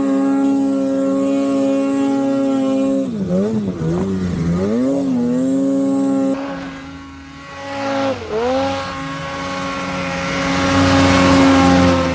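Snowmobile engine running at high revs under load, its pitch dipping and picking back up as the throttle is eased off and reopened, about three seconds in and again near eight seconds. A rushing noise builds up under the engine near the end.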